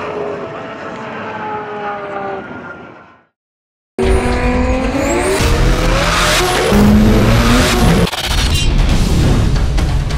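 A high-powered car engine fades out over about three seconds, then after a second of silence a loud engine at full throttle cuts in suddenly, its pitch climbing under hard acceleration. A sudden change about eight seconds in is followed by more loud engine sound.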